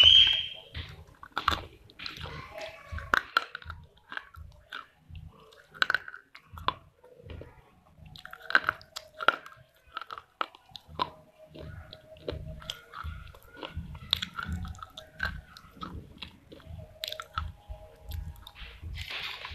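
Close-miked chewing of a mouthful of clay from a small clay pot, crunching and crackling throughout, with a loud crunch right at the start.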